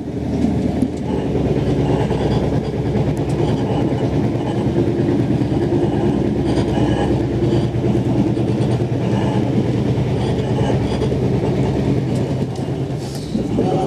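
Xplorer diesel railcar running at speed, heard on board: a steady engine and running-gear drone mixed with the rumble of wheels on the rails.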